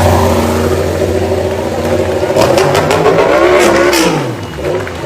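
Motor engine running and revving, with a few sharp clicks in the middle; its pitch drops away about a second before the end.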